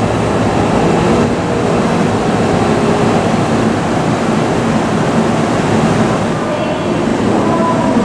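Seibu 40000 series electric train creeping into the platform and slowing to a stop: a steady rumble of wheels and traction motors.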